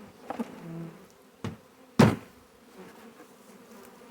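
Honey bees buzzing in a steady hum, with three sharp knocks, the loudest about two seconds in.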